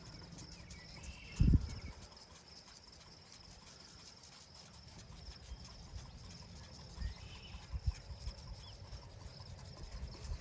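Faint outdoor farm background: a steady high insect-like buzz and a few short distant bird calls, broken by low thumps, the loudest about a second and a half in.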